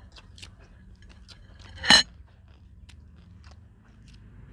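Close-up chewing with small crisp clicks, and one loud crunch about two seconds in as a raw cucumber is bitten.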